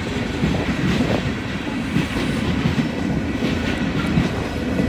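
Freight train cars rolling past close by, the wheels clattering steadily over the rails, with wind buffeting the microphone.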